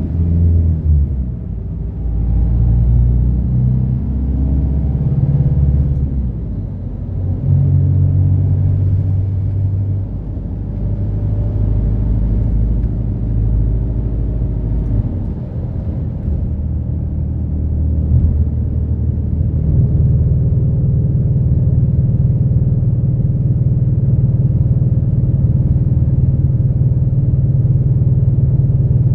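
Route bus's diesel engine and drivetrain heard from inside the cabin, its note stepping up and down as the bus pulls away and shifts through the first half. It then settles into a steady low drone for the last third.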